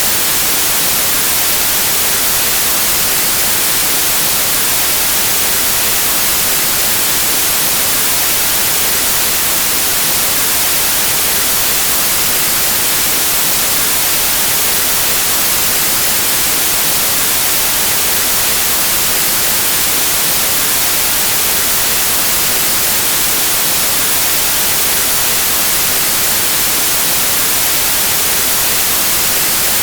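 Pure white noise: a steady, unchanging hiss of static, brightest in the high frequencies, with no breaks or changes.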